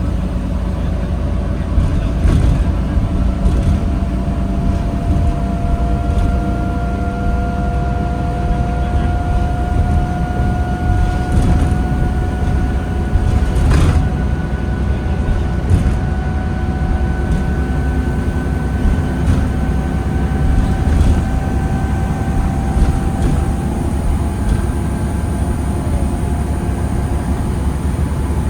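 New Flyer D40LFR diesel bus heard from on board: a steady low engine rumble under a whine that rises slowly in pitch for about twenty seconds as the bus gathers speed. A single sharp click comes about halfway through.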